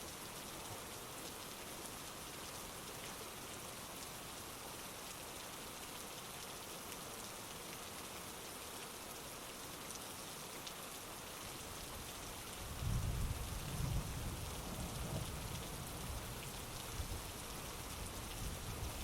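Heavy rain falling in a steady hiss; about thirteen seconds in, a low rolling rumble of thunder comes in and carries on, louder than the rain.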